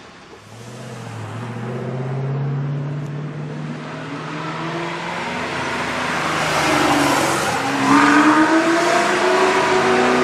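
Supercar engine accelerating through a tunnel, its note echoing off the walls. It grows steadily louder and rises in pitch near the end as the revs climb.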